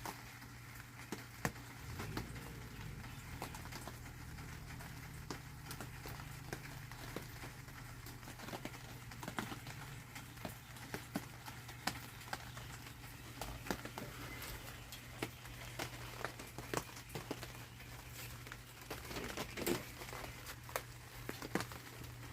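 Raindrops pattering irregularly on a greenhouse roof, single sharp drips landing every fraction of a second over a steady low hum.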